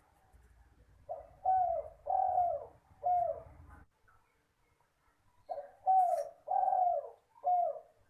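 Spotted dove cooing: two phrases of four notes each, the third note of each phrase drawn out longer.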